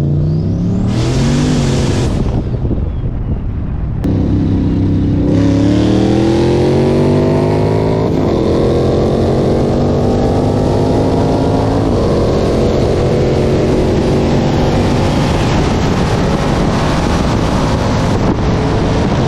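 V8 car engine at full throttle, revs climbing hard through the gears with a pitch drop at each shift, about 8 and 12 seconds in.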